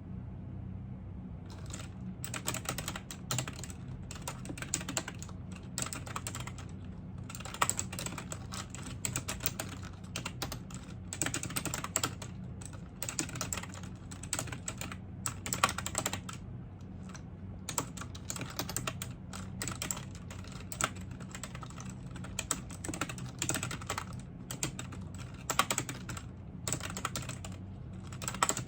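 Typing on a computer keyboard: rapid keystrokes in runs with short pauses, starting about a second and a half in. A steady low hum runs underneath.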